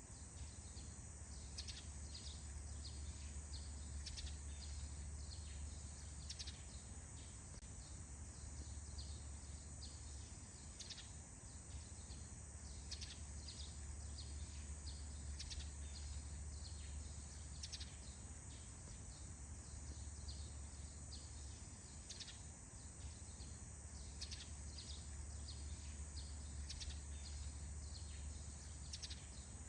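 Morning forest ambience: many short bird chirps over a steady high-pitched insect trill and a low rumble.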